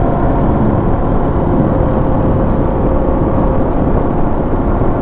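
Motorcycle cruising at a steady road speed, around 50 mph: a loud, even rush of wind and engine noise. A faint steady whine runs underneath and fades about three quarters of the way through.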